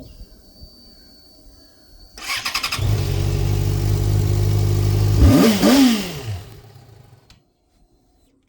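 Yamaha motorcycle engine started with a short burst of cranking, running steadily, then revved twice in quick succession before dying away.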